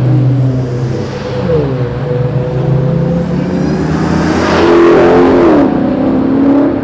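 Modified car exhausts: a steady low engine drone with revs rising and falling, and a louder surge about four and a half seconds in that lasts about a second.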